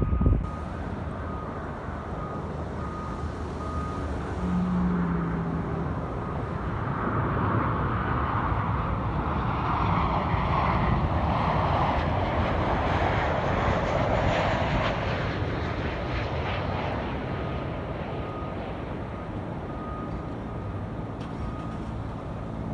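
Jet airliner on landing approach passing by, its engine noise swelling, loudest about halfway through, then fading away.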